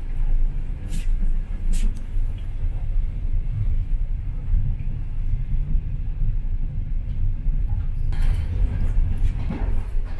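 Passenger train running along the track, heard inside the carriage as a steady low rumble. A couple of sharp clicks come in the first two seconds, and a brighter rattle joins near the end.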